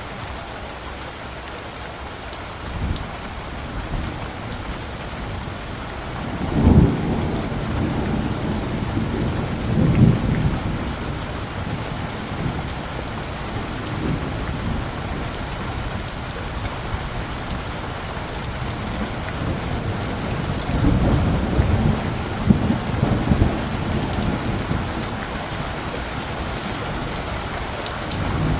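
Steady heavy rain hissing and pattering, with several low rolls of distant thunder. The strongest rumbles come about a quarter of the way in and again in a cluster past the two-thirds mark.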